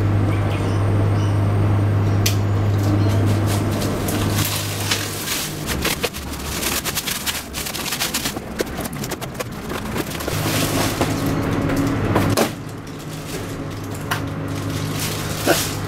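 A cardboard parcel being opened by hand: tape and packaging torn, rustled and crinkled, in irregular crackles and clicks. A steady low hum runs under the first few seconds and returns briefly later on.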